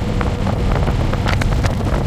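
Wind buffeting and crackling on the microphone over the steady low rumble of a Harley-Davidson Electra Glide's V-twin engine, recorded from the pillion seat of the moving motorcycle.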